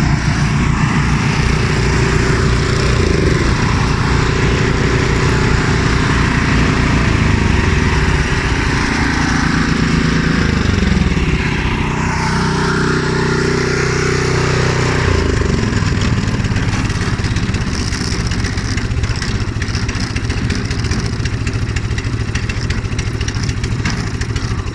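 Several gasoline snow blower engines running together; around the middle one engine note falls away and the mix changes as they are being shut off, while at least one keeps running.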